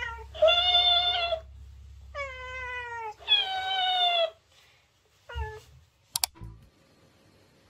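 A cat meowing repeatedly: a string of long drawn-out meows, about a second each, then a short one, followed by a sharp click.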